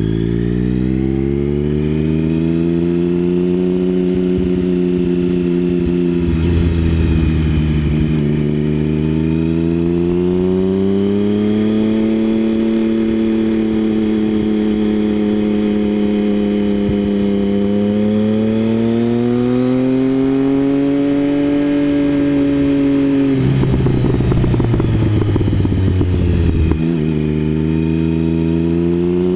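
Triumph Speed Triple 1050's three-cylinder engine through a Mivv aftermarket exhaust, riding on the road: the engine note climbs as it pulls through the gears and drops at each shift, with a sharp fall about three-quarters through to a lower, rougher note before it picks up again near the end.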